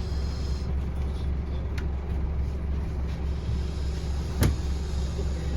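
Scania N230UD double-decker bus's five-cylinder diesel engine running steadily on the move, a low even rumble, with one sharp knock about four and a half seconds in.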